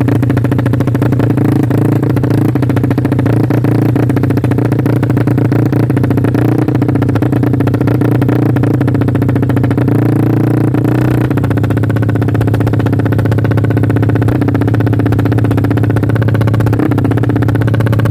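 Yamaha MX New four-stroke single, bored up to 155 cc, running loudly through a JRM aftermarket exhaust at a steady, held engine speed, with only a slight wavering about halfway through.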